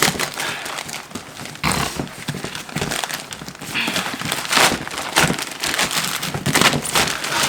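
Shipping packaging being torn open and handled by hand: irregular crinkling, rustling and tearing strokes, several of them sharp and loud.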